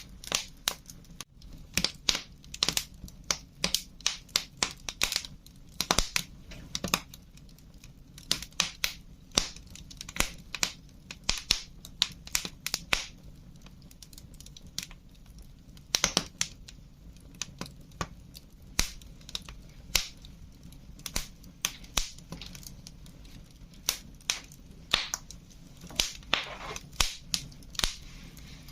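Wood fire crackling, with sharp pops that come irregularly, in quick clusters and then sparser, over a steady low rumble of the burning fire.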